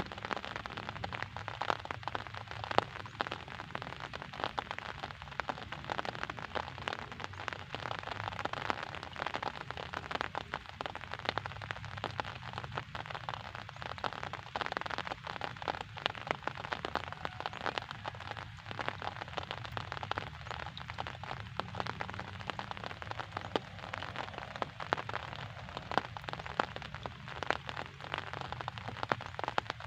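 Steady rain falling, a dense even patter of countless small drops hitting a surface.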